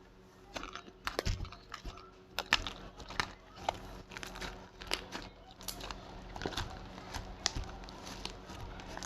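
Slime and its packaging being handled: irregular crinkling with many sharp crackling clicks.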